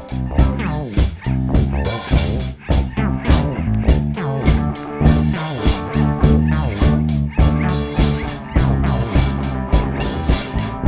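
A band jamming: guitar and bass guitar over a drum kit keeping a steady beat, with the guitar sliding and bending its notes.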